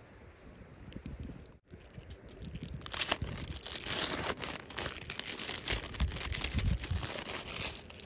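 Crinkling and rustling of handled material, like a plastic bag or wrapping being crumpled, growing louder about three seconds in and carrying on as a dense crackle.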